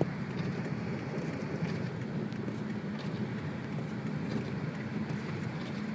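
Car engine and tyre noise heard from inside the cabin while driving on a snow-covered road: a steady low drone with a few faint scattered ticks.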